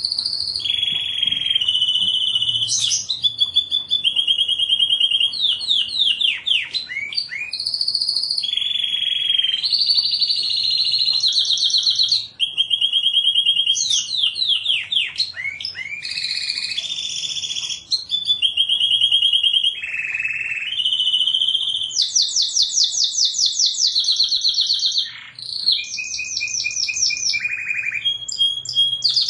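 Canary singing a long unbroken song of fast trills and rolls, switching to a new repeated phrase every second or two.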